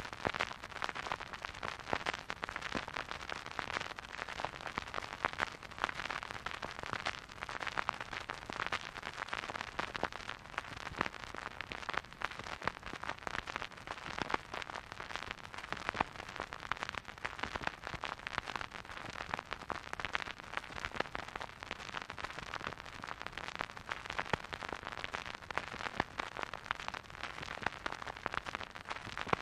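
Vinyl record surface noise from a spinning turntable: a steady soft hiss with dense, irregular crackles and pops, and no music playing.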